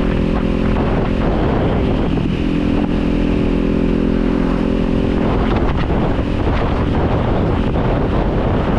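Kawasaki Z400 parallel-twin engine running under way, its note holding steady, then turning rougher and noisier about five seconds in, with wind noise on the microphone.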